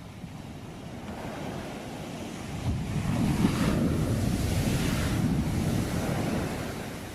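Sea waves breaking on the shore: a wave builds about two and a half seconds in, washes in with a rumble and hiss for a few seconds, then draws back and fades near the end. Wind buffets the microphone.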